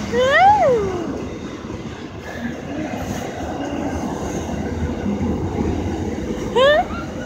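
Pacific National freight train rolling past close by, a steady noisy rumble of its wagons on the rails. A short high cry rises and falls at the start, and another brief rising cry comes near the end.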